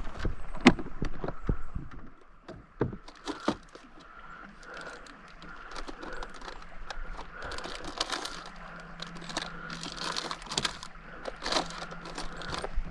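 Fishing gear being handled aboard a kayak: scattered clicks and knocks, most of them in the first two seconds, with light rustling and crinkling after.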